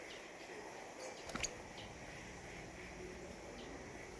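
Small forest birds chirping faintly in short, scattered high notes over a steady background hiss of insects and forest, with a louder, sharp pair of notes about a second and a half in.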